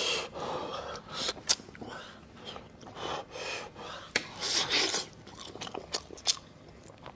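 Close-miked eating of braised beef on the bone: irregular wet chewing and mouth clicks, with short noisy bursts in between.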